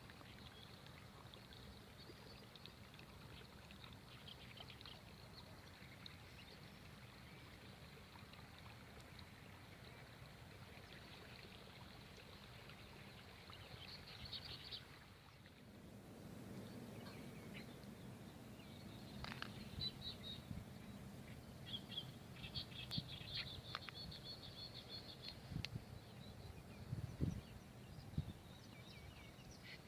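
Faint open-air ambience with small birds chirping in short high bursts, more often in the second half.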